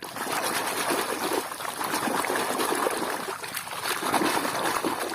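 Water splashing and trickling as a muddy toy vehicle is washed by hand, a continuous irregular wash of water noise.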